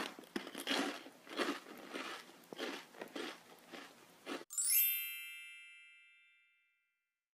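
Crunchy polvilho biscuits (Brazilian cassava-starch biscuits) being chewed close to the microphone, about two crunches a second. About four and a half seconds in the chewing stops and a bright chime rings and fades away over about two seconds.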